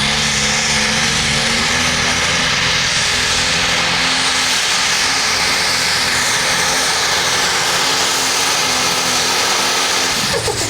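Pulling tractor or truck engine running flat out under load as it drags the sled, a loud steady drone with a high whine. It drops off abruptly just before the end.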